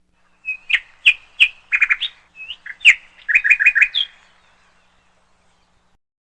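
A bird chirping: single sharp chirps mixed with quick runs of four or five notes in a row, stopping a little after four seconds in.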